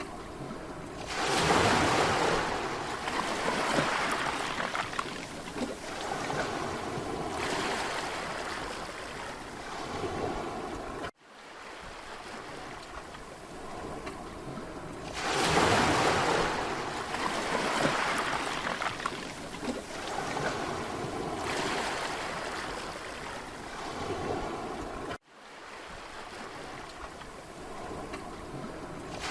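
Mediterranean sea waves breaking on a beach: two breakers about 14 seconds apart, each a loud surge that fades into a long wash of foam, over a steady sea hiss. Twice the sound cuts out for an instant, like an edit in the recording.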